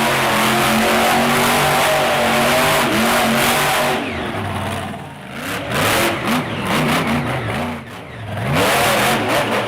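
Monster truck engine at high revs, held steady for about four seconds, then dropping off and blipped back up several times in quick throttle stabs.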